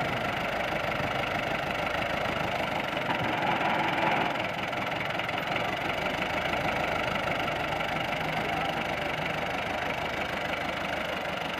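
Tractor diesel engine running steadily, a little louder about three to four seconds in.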